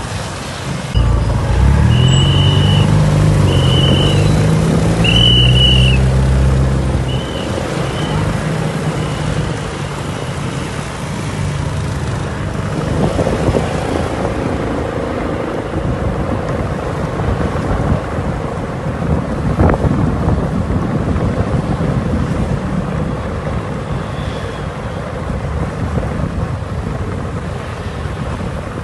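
Ford Mustang GT500 V8 engine and exhaust pulling hard for the first several seconds, its pitch shifting up and down, with a few short high tones over it. It then gives way to a steady rush of wind and road noise.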